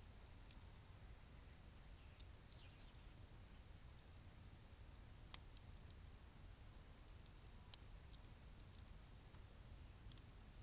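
Wood campfire crackling faintly, with a few scattered sharp pops, the loudest about five and eight seconds in, over a low steady rumble.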